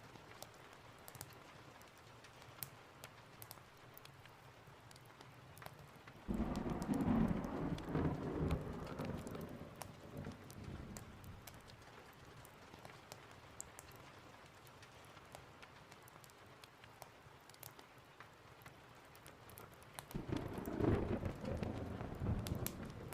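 Steady rain with two rolls of thunder. The first breaks in suddenly about six seconds in and rumbles away over several seconds. The second builds about twenty seconds in and is still rumbling at the end.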